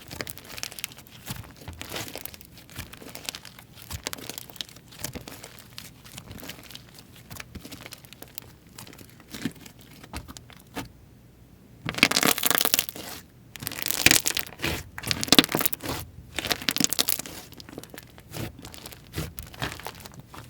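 Hands playing with slime: continual sticky crackling and popping as it is stretched, pressed and pulled apart. It drops out briefly about eleven seconds in, then comes back louder in several bursts.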